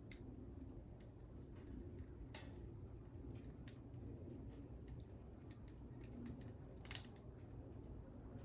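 Small wood fire crackling: scattered faint snaps and pops, with one louder pop about seven seconds in.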